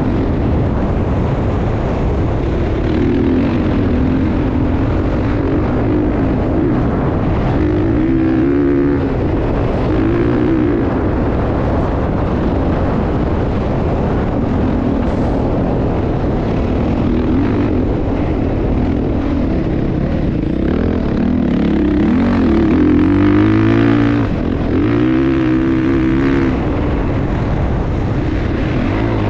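Motocross motorcycle engine running loud, its pitch rising and falling again and again as it revs up and backs off.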